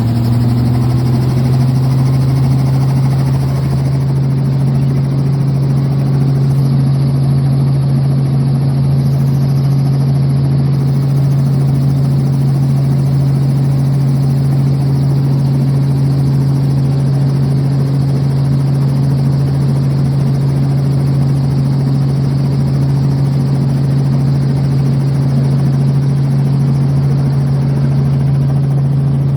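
Helicopter running with a steady, unchanging low engine drone.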